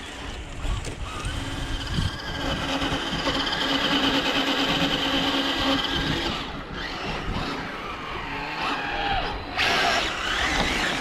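Scale RC crawler truck's electric motor and gearbox whining under load as it climbs, a steady whine that holds for about four seconds from about two seconds in. A short, louder rushing burst comes near the end.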